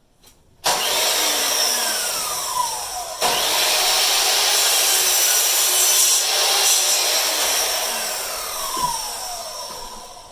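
Power saw cutting wood, two cuts: the first starts about a second in and stops briefly about three seconds in, then a longer cut that fades out near the end.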